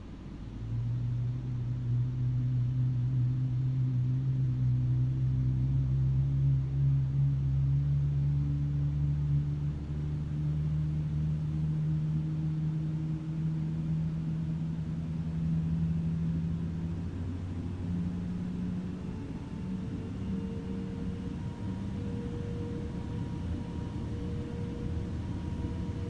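Rolls-Royce Trent 7000 turbofan engine on an Airbus A330neo starting up: a low hum comes in about a second in and rises slowly in pitch as the engine spools up.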